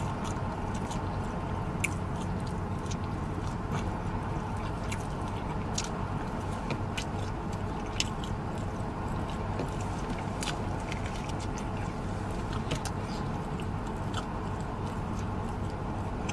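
Close-up chewing and lip-smacking on barbecue ribs: scattered wet clicks of the mouth over a steady low hum inside the car.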